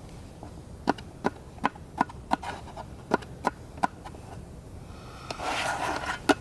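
A run of sharp knocks, about three a second, then a short scraping rustle and two more knocks near the end.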